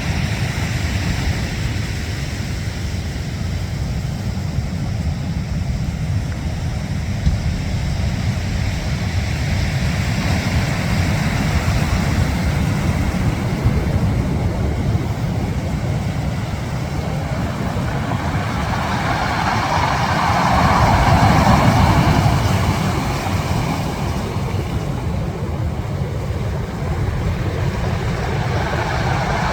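Steady low rumble of wind and sea, swelling for a few seconds about twenty seconds in.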